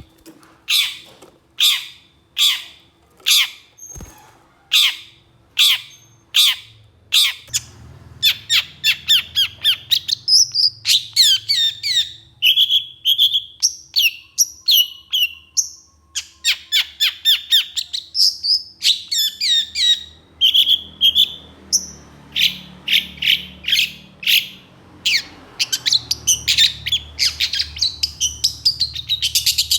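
Long-tailed shrike calling: harsh, scratchy notes repeated evenly at about one and a half a second, breaking after about seven seconds into a fast, varied stream of rough chattering notes, trills and whistles.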